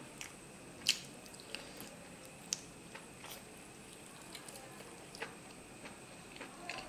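Close-miked chewing of mutton curry and rice, with wet mouth clicks and smacks and fingers squishing rice on a steel plate. A sharp click about a second in is the loudest, another comes at about two and a half seconds, and smaller ones are scattered through the rest.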